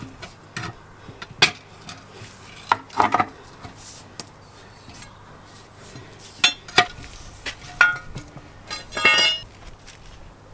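Metal tyre-fitting tools clinking and knocking in a string of separate sharp strikes, with a short ringing metallic clatter near the end.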